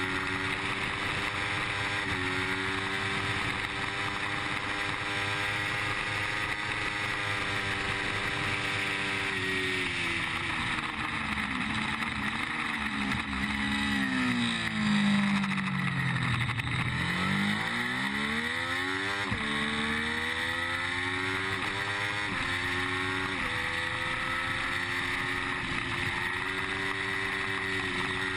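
Triumph Street Triple's inline three-cylinder engine racing at high revs with wind rushing past, heard from the bike itself. About ten seconds in the revs fall away under braking and downshifts to a low about sixteen seconds in, then climb again as it accelerates out, rising in steps with each upshift before holding high.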